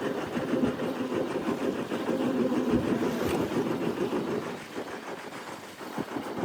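A boat's engine running steadily with a low, rough drone.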